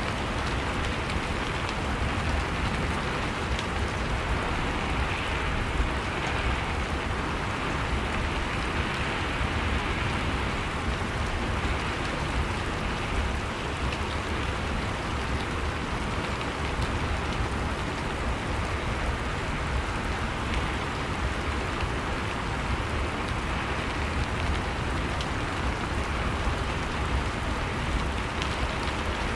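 Steady rain falling, an even hiss with a low rumble underneath and no single loud clap.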